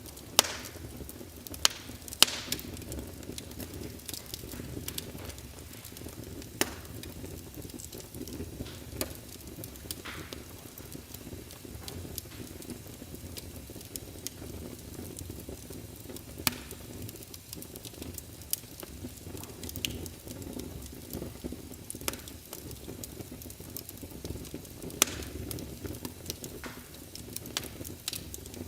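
Fire crackling in a fireplace: a steady low rumble with frequent sharp pops and snaps at irregular moments, the loudest few near the start.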